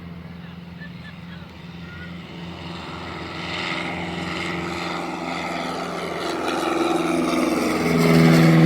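Propeller airplane taking off, its engine running at takeoff power with a steady drone that grows steadily louder as it comes closer, loudest near the end.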